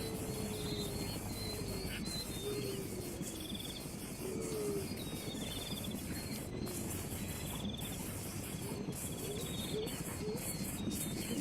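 Outdoor bird and insect chorus: a short, high trilled chirp that repeats every second or two, with brief low gliding calls scattered through, over a steady background hiss.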